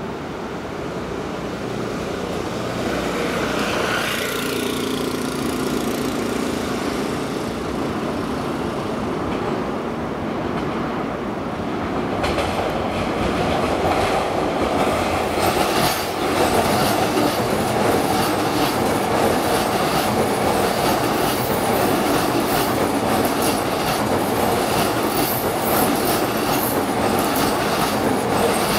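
JR East E231-500 series electric commuter train approaching and running past close by, with a brief hum as it nears, then wheels clattering over the rail joints, louder from about twelve seconds in as the cars pass.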